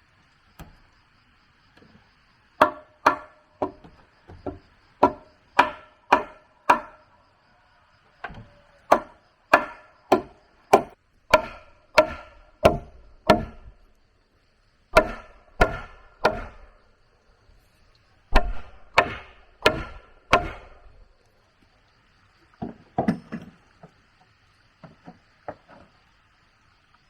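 A tool chopping into wood in runs of sharp strikes, about two a second, each with a short ringing note, with pauses between runs and softer strikes near the end.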